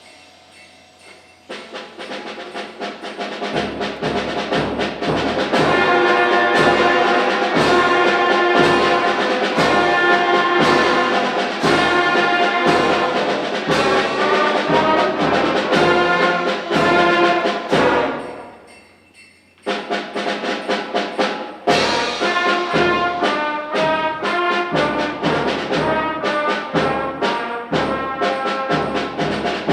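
Fifth-grade concert band playing, brass to the fore over a steady drum beat. It starts softly, builds, breaks off briefly about two-thirds of the way through, then comes back in.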